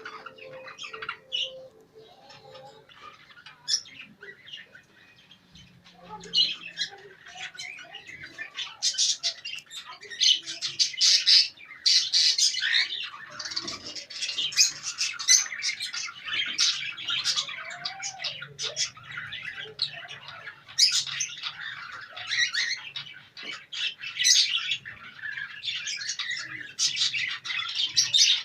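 A flock of caged pet birds, small parrots such as budgerigars, lovebirds and cockatiels, chattering and squawking together. Sparse chirps at first, then a dense, overlapping din of calls from about six seconds in.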